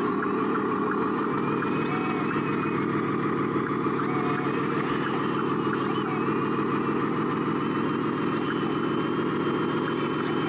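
Radio-controlled construction machinery running steadily: a continuous motor-and-gear drone with faint whines rising and falling, and light ticks about three times a second.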